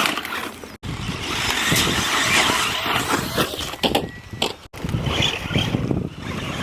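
Radio-controlled bash truck driving hard: motor running with tyres churning and clattering over rough ground. The sound cuts out abruptly twice.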